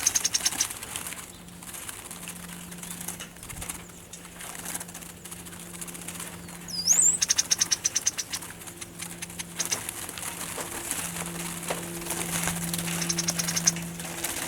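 Small birds fluttering inside a cage trap, with rapid high chattering call bursts at the start, in the middle and near the end, and one short whistle midway. A steady low hum runs underneath.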